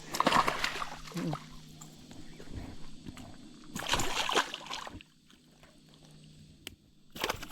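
Creek water splashing and sloshing in three bursts: a longer one at the start, another about four seconds in and a short one near the end.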